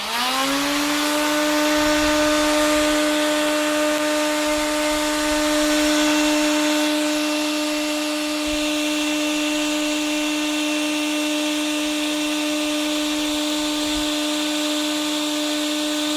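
Electrolux vacuum cleaner switched on: its motor spins up with a quickly rising whine in the first second, then runs at a steady whine over a rush of air.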